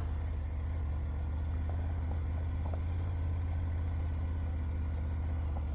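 Motorcycle engine running steadily at low speed, a constant low hum with no change in pitch.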